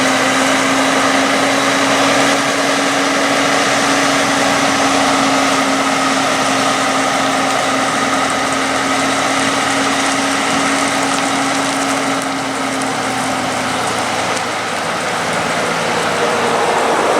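Heavy diesel truck engines running with a steady drone over dense road and wind noise. Late on, the drone drops away and a falling pitch follows.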